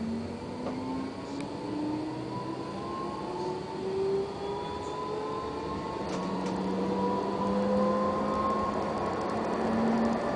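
Tram's traction motors whining as it accelerates, the tone rising in pitch through the first few seconds and again in the second half, getting louder.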